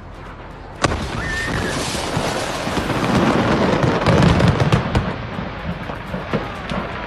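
Stored fireworks going off en masse: a sudden loud bang about a second in, then a dense, continuous crackle of many small explosions over deep rumbling booms, peaking in the middle.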